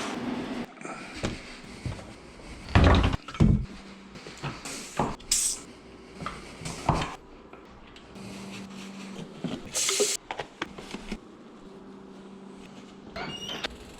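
Mountain bike clattering over a rough woodland trail: irregular knocks and rattles from the frame and chain as it hits bumps, over tyre and trail noise, with two heavy thumps about three seconds in.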